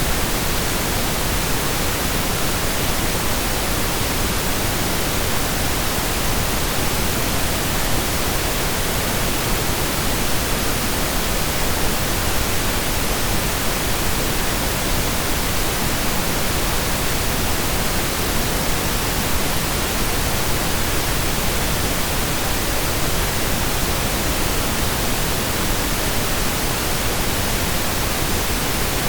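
Steady synthesized pink noise in stereo: an even hiss with equal energy per octave, unchanging throughout.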